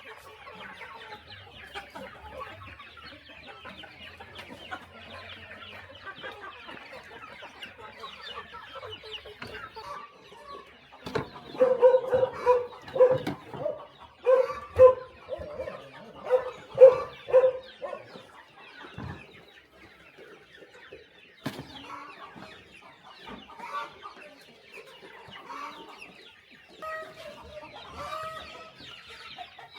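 A flock of chickens clucking steadily. In the middle, one bird gives a run of loud, evenly repeated calls for about six seconds before the flock's softer clucking resumes.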